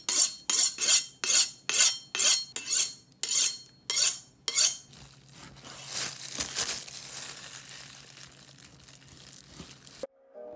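Kitchen prep sounds: about a dozen sharp, evenly spaced strokes of a utensil, a little over two a second. These give way to a softer hissing rustle that swells and fades, over a faint steady hum.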